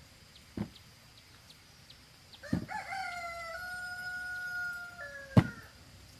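A rooster crowing once, a single long call of about three seconds that rises at the start and drops at the end. Sharp knocks come before and during it, the loudest near the end of the crow.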